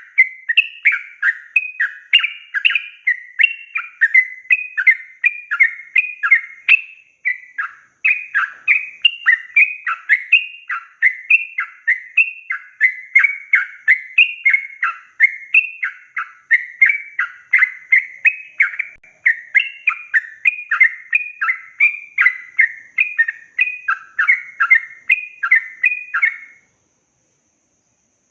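Yellow-vented bulbul (trucukan) singing a long, rapid run of short, repeated chattering phrases, a little over two a second, that breaks off abruptly near the end.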